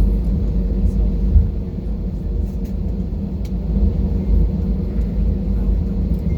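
Airbus A320 jet engines running, heard inside the cabin as a steady low rumble with a constant hum.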